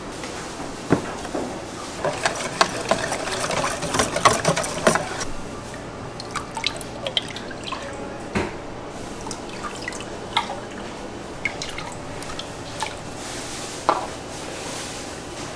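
Liquid pouring and dripping, with many scattered clicks and knocks; busiest and loudest about two to five seconds in, then sparser taps.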